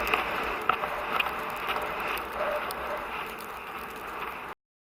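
Steady rushing wind and movement noise on a rider's camera microphone, with a few irregular sharp clicks, cutting off suddenly about four and a half seconds in.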